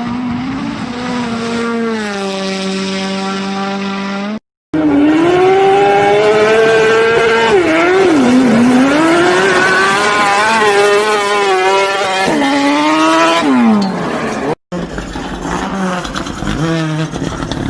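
Rally car engines at full throttle, the engine note climbing and dropping back with each gear change, in three short clips cut together about four and a half and fifteen seconds in.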